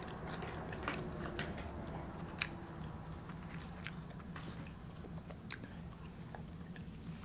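Close-miked chewing and mouth sounds of a person eating a burrito bowl, with scattered small clicks, one sharper about two and a half seconds in, as a fork works in the bowl. A low steady hum runs underneath.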